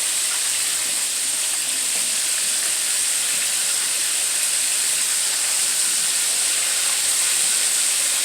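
Chicken wings frying in hot grease in a pan on the stove: a steady, even sizzle.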